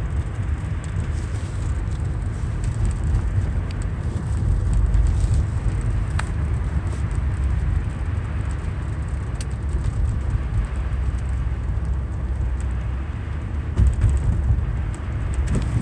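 Steady low rumble of a car driving, with engine and tyre noise on a road after snowfall.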